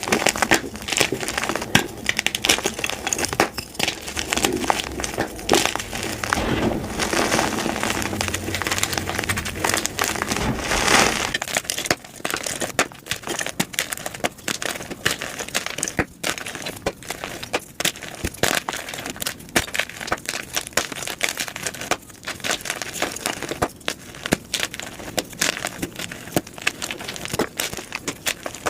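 Blocks of gym chalk being crushed and crumbled, a dense run of crunching and crackling. About eleven seconds in it changes to sparser, sharper separate crunches.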